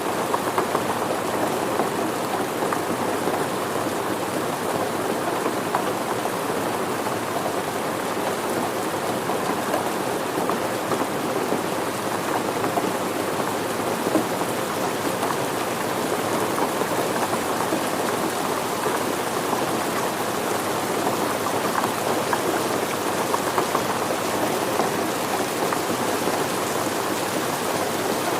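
Steady rain falling and pattering on surfaces, an even hiss dotted with small drop impacts.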